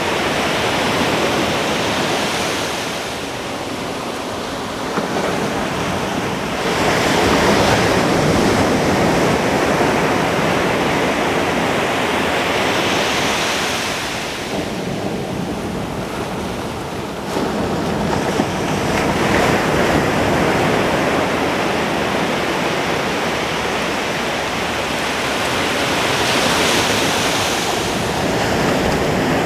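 Ocean waves breaking on a beach, a continuous rush of surf that swells with each new breaker and eases between them, the louder surges coming roughly every ten seconds. Some wind on the microphone.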